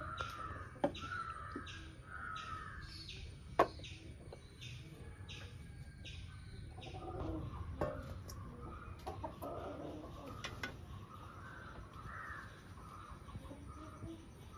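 Birds calling, with a high chirp repeating about twice a second during the first half, and a few sharp knocks.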